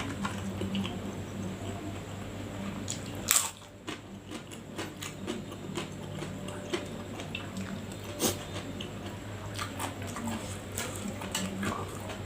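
A person chewing and biting food close to the microphone, with irregular wet mouth noises and crunches. There is a sharp louder click about three seconds in and another about eight seconds in.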